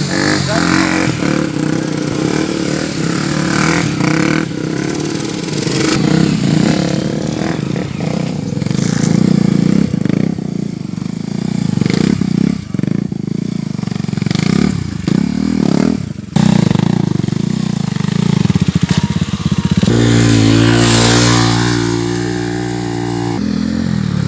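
KTM Duke motorcycle's single-cylinder engine revving up and down through wheelies and stoppies. Near the end, about twenty seconds in, it holds one steady pitch for a few seconds.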